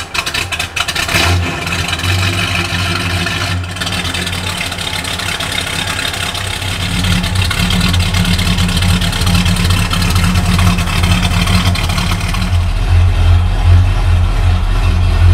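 Freshly started big-block V8 of a 1977 Ford Custom 500 Police Interceptor running at the exhaust, still cold. It idles steadily, then grows louder and deeper about halfway through and again near the end as the car backs out.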